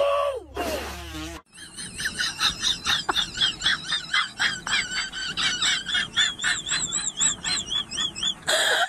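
A short falling tone that cuts off abruptly about a second and a half in, then birds chirping in quick, repeated rising-and-falling calls.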